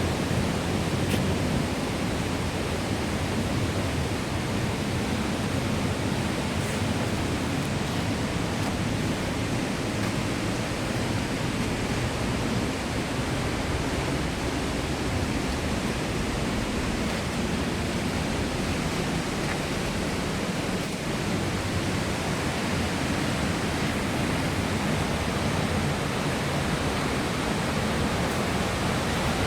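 Steady rush of water from the Kozjak stream and its falls, an even, unbroken noise with no change in level.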